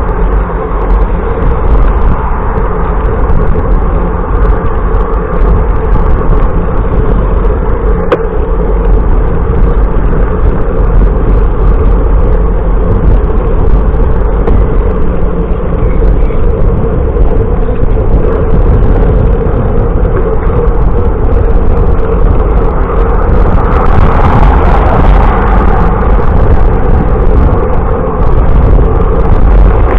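Steady, loud rumble of wind and road noise on a camera carried on a moving bicycle, with a brief click about 8 seconds in and a hissier swell about 24 seconds in.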